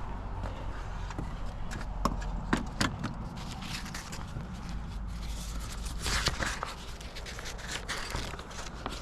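Footsteps and scuffs on dirt, with a few sharp knocks about two to three seconds in, over a low steady rumble.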